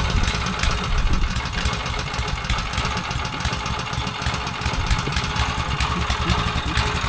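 Petrol plate compactor's engine running steadily just after starting, left to warm up before compacting.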